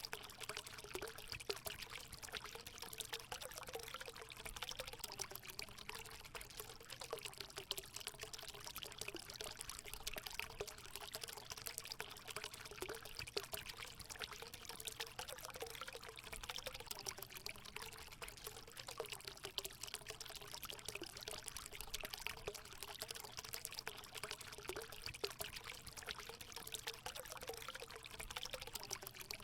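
Water pouring and trickling steadily into a hot spring pool, a continuous splashing with a gurgling undertone.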